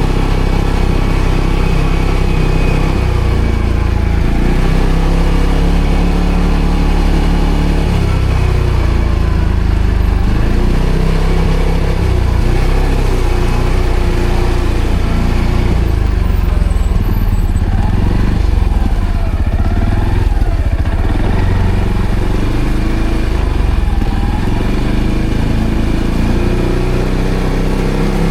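ATV engine running while being ridden off-road, its pitch rising and falling every few seconds as the throttle is opened and eased.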